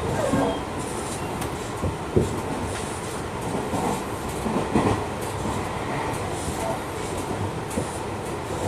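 Tobu Tojo Line electric commuter train running between stations: a steady rumble of wheels on rail, with a few sharp clacks, the clearest about two seconds in and near five seconds.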